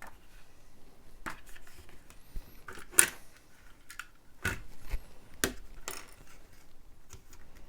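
Plastic Lego bricks and parts clicking and clattering as they are handled, a handful of separate sharp clicks with the loudest about three seconds in.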